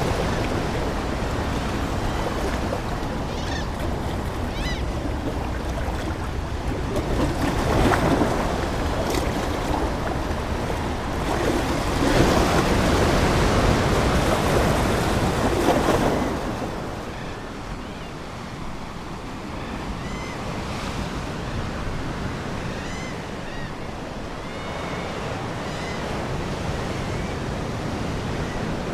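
Ocean waves breaking and washing ashore, swelling louder a few times in the first half and then settling into a calmer wash. Faint seagull cries come through over the surf now and then.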